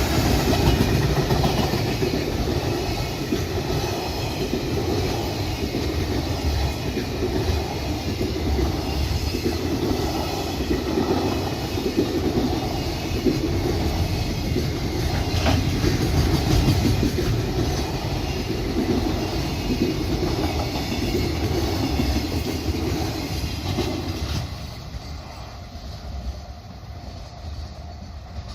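Freight train passing close by: a long rumble of wagon wheels clattering over the rail joints. It dies away about 24 seconds in as the last wagons go by.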